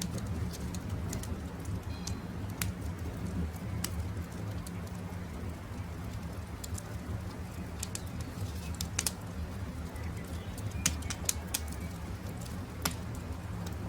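Campfire crackling, with irregular sharp pops over a steady low rumble, while birds call in the background.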